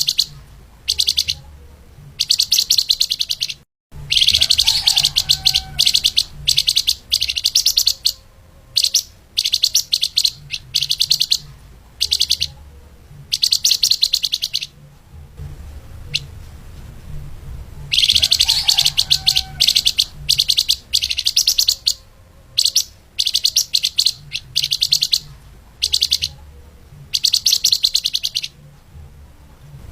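Flamboyan (lemahan) songbird singing in rapid, tightly packed high chattering phrases of a second or two each, with short pauses between them. Faint low hum underneath.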